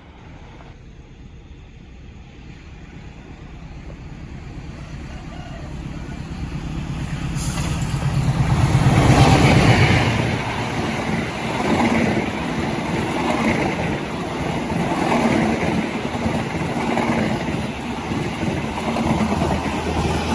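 A diesel locomotive-hauled train approaches and passes close by. The locomotive's engine grows louder to a peak about nine seconds in, then the cars rumble and clatter past, the noise rising and falling at a steady beat.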